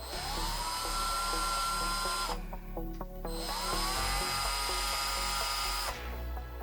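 Electric RC car motor whining up to speed twice, each time climbing in pitch and then holding steady for about two seconds, over background music.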